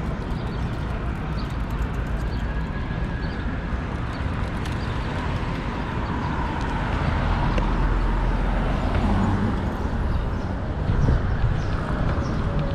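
City street noise heard from a moving bicycle: steady traffic with a heavy low rumble of wind on the microphone, swelling louder about seven seconds in.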